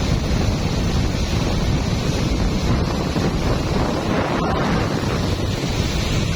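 Steady wind rumble on the microphone of a boat under way, over the rush of water along the hull.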